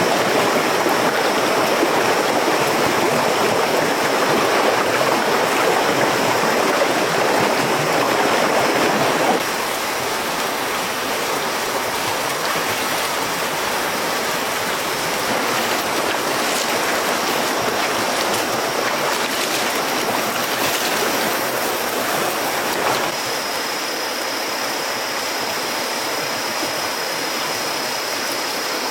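Running water, like a jungle stream, rushing steadily, with a thin steady high tone above it. It drops a little in level about nine seconds in.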